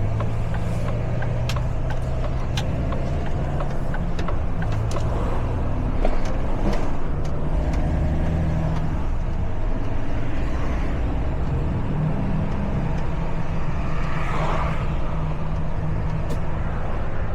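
Truck engine running steadily while driving, with scattered sharp ticks and a short hiss near the end.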